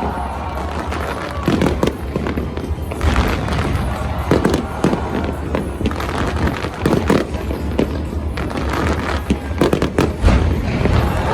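Aerial fireworks bursting in quick succession, a steady run of bangs and crackles every second or so, with music playing underneath.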